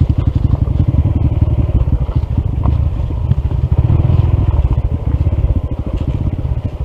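Honda CT125's single-cylinder engine running at low revs with an even, rapid pulsing beat. The engine is ailing, with a faulty piston and a misaligned valve.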